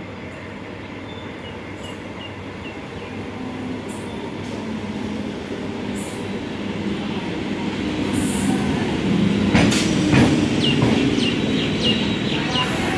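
ICF-built electric multiple unit local train pulling in, growing steadily louder as it nears. In the second half come sharp rail-joint clicks and short high wheel squeals.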